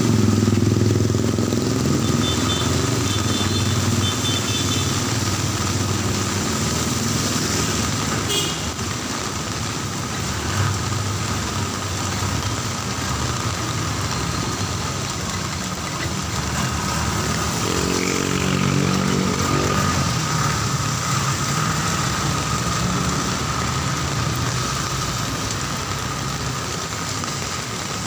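Street traffic in the rain: a motor vehicle engine running close by in the first few seconds, another passing about two-thirds of the way through, over a steady hiss of rain. There is one sharp click about eight seconds in.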